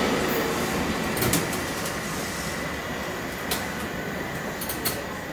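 South Western Railway Class 450 Desiro electric train running away from the platform, its rumble gradually fading, with a few sharp clicks along the way.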